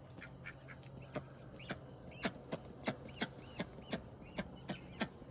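Poultry making a quick series of short, soft calls, about three a second: ducks and chickens in the run. A faint steady hum lies underneath.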